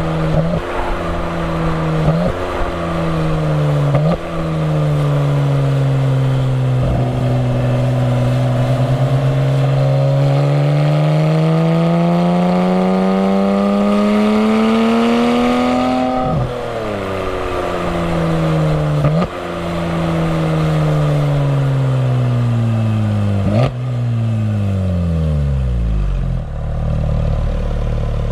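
Porsche 991 GT3's 3.8-litre flat-six through Fabspeed sport headers and side muffler bypass pipes, slowing with two quick downshift throttle blips. It then pulls hard through one long rising rev and lifts off. It slows again with two more blipped downshifts, dropping to near idle before pulling away again at the end.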